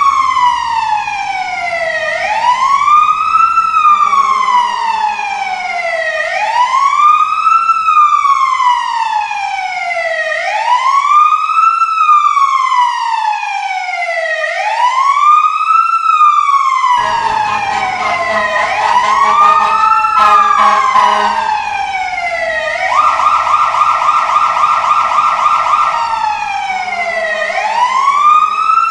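Emergency vehicle siren wailing, its pitch rising quickly and falling slowly about once every three seconds. Partway through it switches briefly to a rapid yelp, then goes back to the slow wail.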